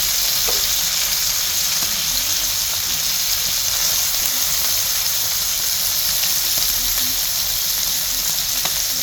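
Bacon sizzling steadily in a pan as its fat renders out, an even hiss with faint scattered pops.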